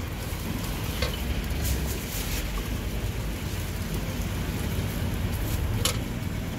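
Thai-style omelette sizzling as it fries in a wok of very hot oil, with a metal spatula scraping and clinking against the wok a few times as the egg is turned and folded. A low steady rumble runs underneath.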